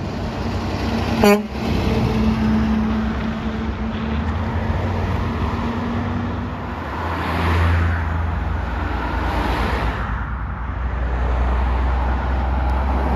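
Road traffic with heavy vehicles driving past, and a very short, loud horn toot about a second in. A vehicle passes close by around seven to eight seconds, its noise swelling and fading.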